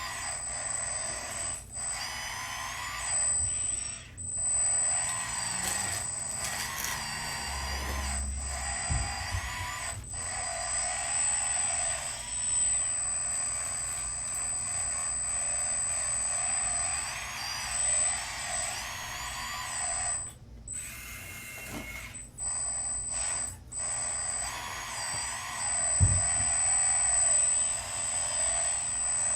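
Electric motors and gearboxes of radio-controlled construction models running, with whines that rise and fall in pitch and stop and start as the machines are worked. A single low knock comes near the end.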